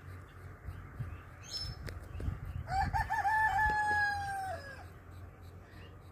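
A bird's long call of about two seconds, near the middle: wavering at first, then held, then falling off at the end. A short high chirp and a few soft knocks come just before it.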